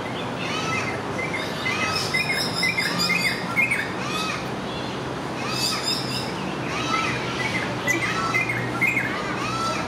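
Wild birds chirping: short arched calls repeated every half second or so, several birds overlapping, busiest near the start and again near the end, over a low steady hum.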